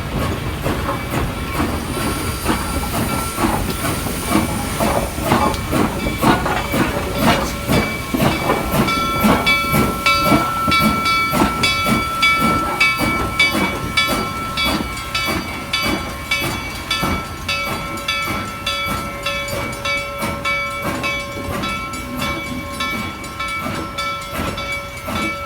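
Reading & Northern No. 2102, a 4-8-4 steam locomotive, moving slowly in reverse: steam hissing over a fast, even run of clicks and clanks, with steady high squealing tones held through most of it.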